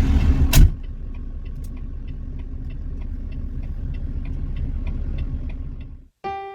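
Vehicle rumble, loud at first, then a sharp knock about half a second in. After the knock the rumble runs on quieter and steady, with a faint regular ticking about three times a second. It cuts out just before the end, when guitar music begins.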